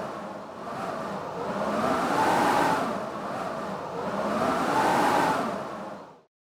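Blizzard wind howling in gusts, swelling and fading about every two and a half seconds with a whistling tone that rises and falls on each gust, then cutting off abruptly near the end.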